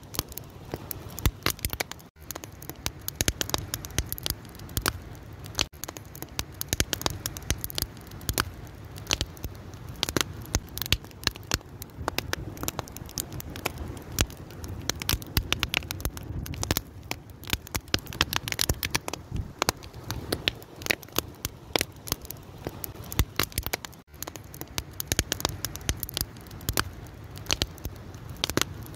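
Fire burning with dense, irregular crackles and pops over a low steady rumble.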